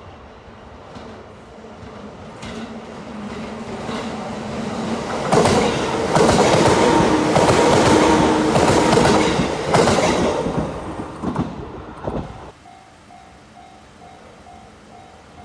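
A Senseki Line electric train passing at speed. The noise grows as it approaches, peaks with wheel clicks over the rail joints and a steady motor whine, then fades away. After it drops off, a quiet beeping tone repeats about twice a second.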